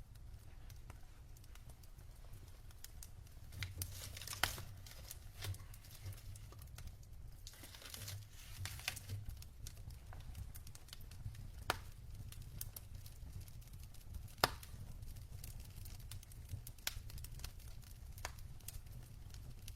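Wood fire burning in a fireplace: logs crackling with scattered sharp pops, a few louder snaps among them, over a low steady rumble of the flames, with brief stretches of hissing.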